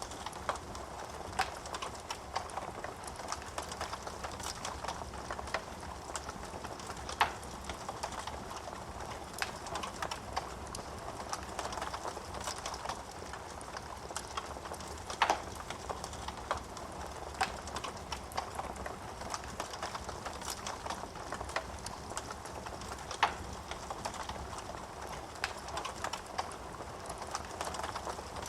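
Wood fire burning in a fireplace: a steady hiss and rustle of flames with constant irregular crackling, and a few louder pops of the burning logs.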